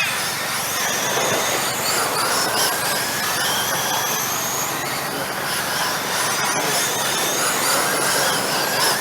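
Radio-controlled model trucks racing round the track, their motors whining up and down in pitch as several cars accelerate and back off, over tyre and track noise.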